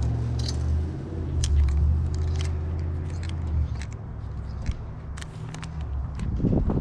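Low, steady rumble of a running motor vehicle, strongest for the first few seconds and easing off, with scattered light clicks and rattles.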